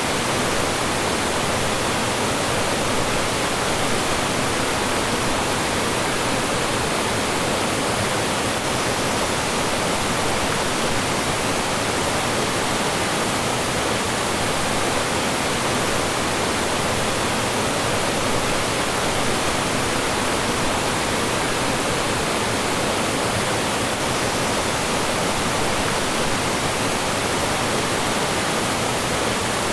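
Mountain stream rushing and tumbling over rocks in small falls, a steady full wash of water noise without change.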